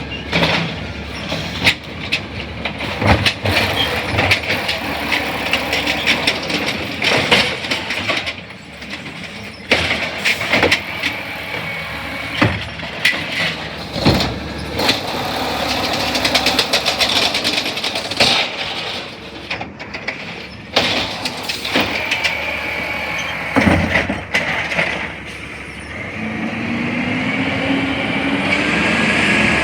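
CNG Peterbilt 320 garbage truck with an Amrep refuse body at work: a string of clanks and bangs as the lift arm handles a cart and the trash drops in, over the running engine, with a rising whine near the end.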